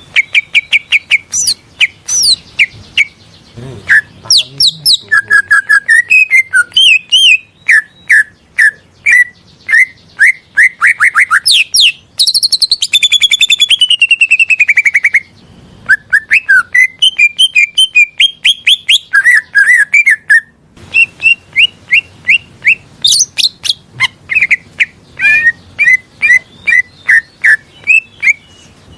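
Cucak ijo (green leafbird) singing a rapid, varied string of sharp chirps and whistled notes, with a long falling trill about halfway through.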